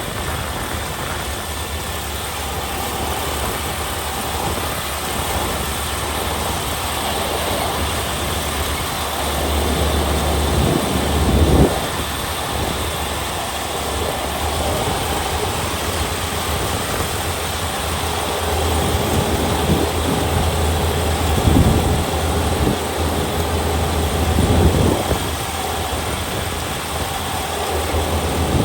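Kubota ER572 combine harvester's 72-horsepower diesel engine running steadily with a deep drone, swelling louder briefly about a third of the way in and twice more in the last third.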